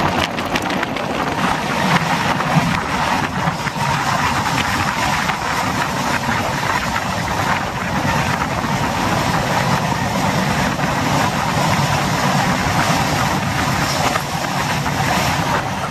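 Express train's LHB passenger coaches running along the track: a steady, loud rumble of wheels on the rails with rushing air.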